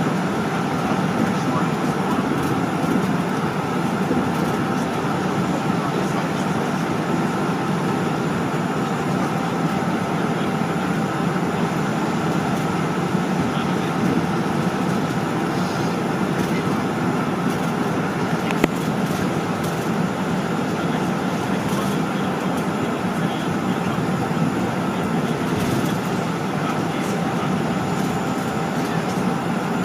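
Steady engine and airflow noise inside a jet airliner's cabin, with a faint high whine over it.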